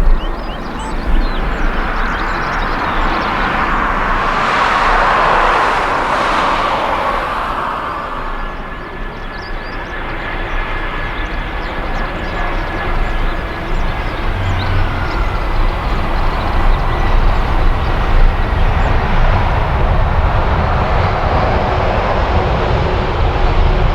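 Jet airliner engines passing. The roar swells to a peak about five seconds in and then eases, with a thin steady whine that dips slightly in pitch midway. A low engine rumble builds again through the second half.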